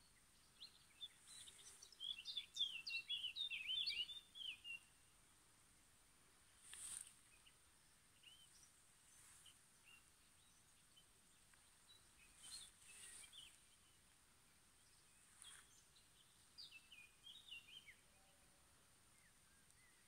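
Small birds singing: a rapid jumble of high chirping notes for about three seconds, beginning a second or so in. A shorter flurry comes near the end, with scattered single calls in between.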